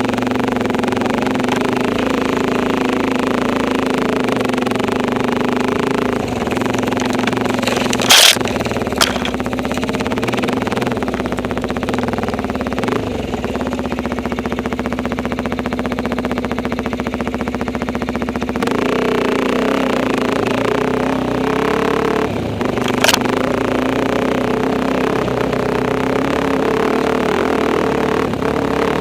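Enduro motorcycle engine running at a fairly steady pace while riding, its note shifting slightly a couple of times, with a few sharp knocks, the loudest about eight seconds in and another near the end of the ride.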